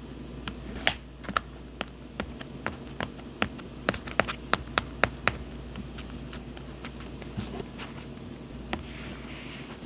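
Hands handling paper journaling supplies: a run of sharp light taps and clicks, quick and close together for the first half, then sparser, with a short papery rustle near the end.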